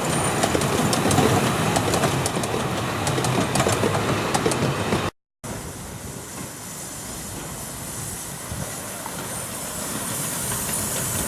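Miniature railway train running on the track, its wheels clicking over the rail joints in a quick, irregular series. After a short cut to silence about five seconds in, a quieter running sound follows and slowly grows louder.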